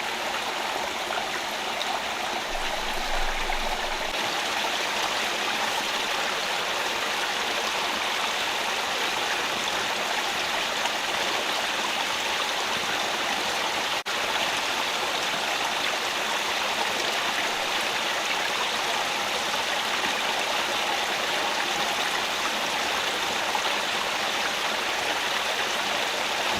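Shallow rocky rainforest stream running steadily, a constant rush of water flowing over and around stones, with a brief dip in level about halfway through.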